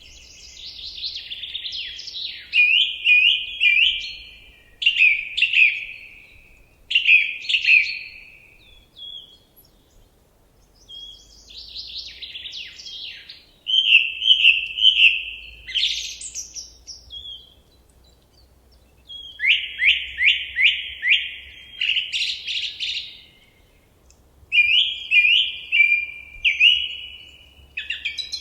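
A songbird singing in a series of short phrases, each a quick run of repeated sharp notes, with pauses of a second or two between them.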